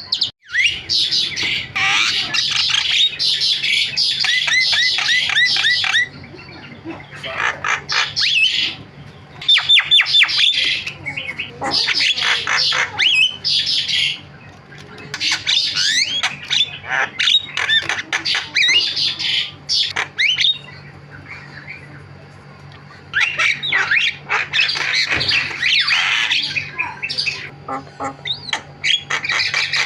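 Javan myna (jalak kebo) singing a loud, chattering song of squawks, whistles and quick falling trills, with other birds' calls mixed in. It sings in bouts broken by a few short pauses. A faint steady hum runs underneath.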